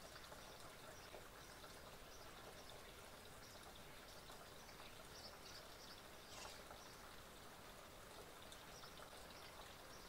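Quiet garden ambience: a steady faint hiss with small birds twittering faintly in short high bursts throughout, and one slightly sharper short sound just past halfway.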